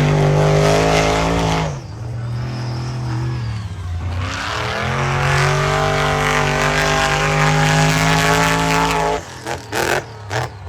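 Monster truck engine at full throttle, revving up and holding high revs, easing off, then climbing and holding again, with a few quick throttle blips near the end.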